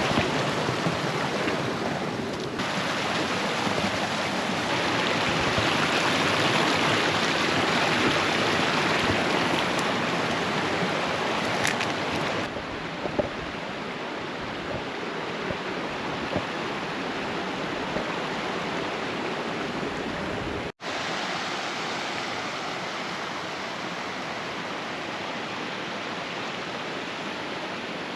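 Steady rush of a mountain stream. It turns a little quieter after a cut near the middle, with a very brief dropout a few seconds later.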